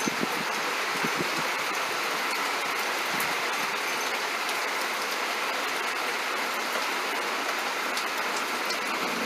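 Heavy rain coming down steadily, an even, unbroken hiss.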